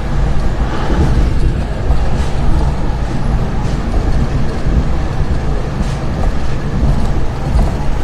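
Steady low rumble of a moving vehicle, with faint clicks over it.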